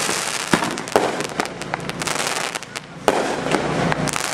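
Fireworks and firecrackers going off: a run of sharp, irregular bangs and pops with crackling between them.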